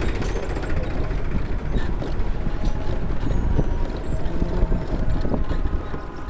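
A vehicle on the move along a road: a steady low rumble with many small knocks and rattles, and wind buffeting the microphone.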